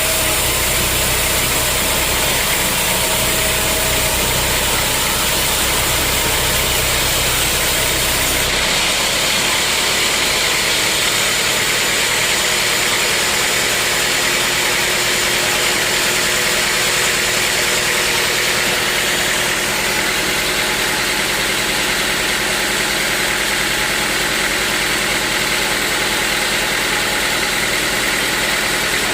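Sawmill machinery running with a loud, steady mechanical noise. About eight seconds in, the deep rumble drops away and the sound turns brighter.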